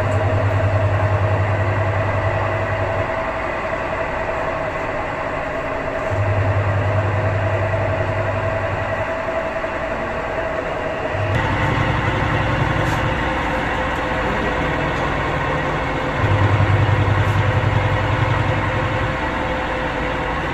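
Realme 11 kg top-load washing machine running under test: its motor hums in bursts of about three seconds, with pauses of about three seconds between, over a steady mechanical noise. The sound grows fuller about halfway through.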